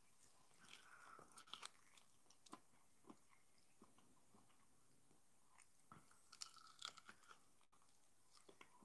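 Faint chewing and crunching from a person gnawing meat off a grilled beef steak bone: a few soft clicks and crackles in two clusters, about a second in and again near the end, with near silence between.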